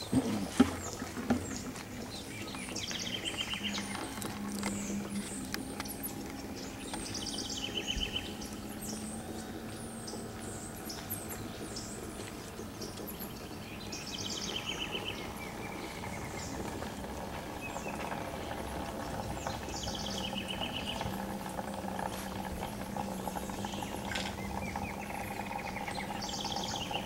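Forest birds calling over a steady background noise. One call, a quick run of high rapid notes lasting about a second, comes back about five times, a few seconds apart.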